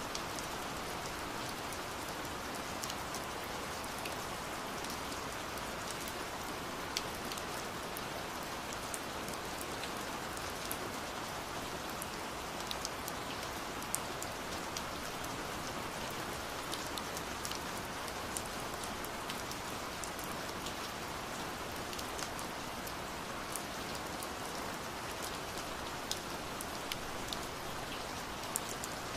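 Steady rain falling, an even hiss scattered with many sharp individual drop ticks.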